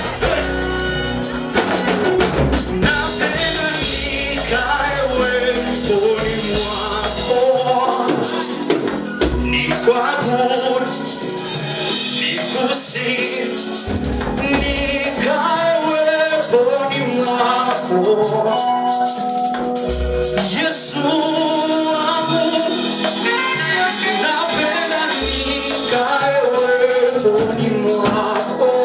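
Gospel praise music: a group singing with instrumental accompaniment and steady tambourine or shaker percussion.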